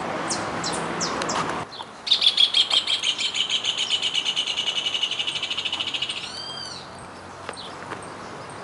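A bird singing a long, rapid, high trill that slows slightly over about four seconds, followed by a couple of arched notes. Before it, a short stretch of outdoor hum with faint chirps cuts off suddenly.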